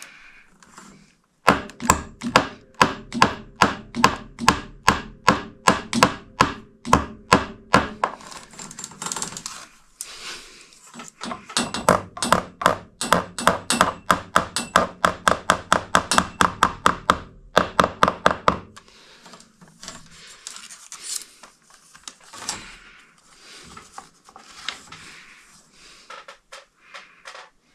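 Hammering: two runs of quick, evenly spaced blows, about three a second, each with a short ringing tone. After that come quieter scattered knocks and handling noises.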